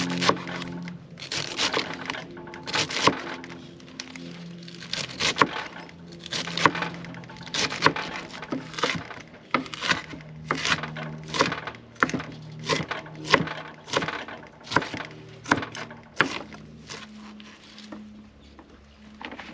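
Wood fire crackling, with sharp irregular cracks and pops about once or twice a second over a low, steady hum of tones.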